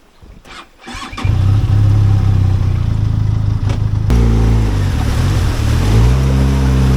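Benelli TRK 502X motorcycle's parallel-twin engine catching about a second in after a few short sputters, then running loudly and being revved up and down from about four seconds in.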